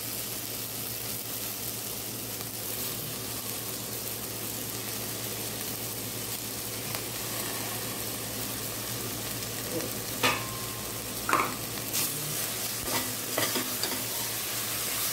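Onion and tomato masala sizzling steadily as it fries in a stainless steel pot, with a few sharp clicks of a steel spatula against the pot in the second half as fresh mint and coriander leaves are stirred in.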